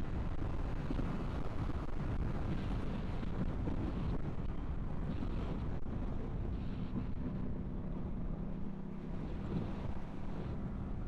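Wind rushing over a helmet-mounted microphone while riding a Yamaha MT-125 motorcycle, with the bike's single-cylinder engine running steadily beneath it. An engine's pitched hum comes through more clearly in the second half.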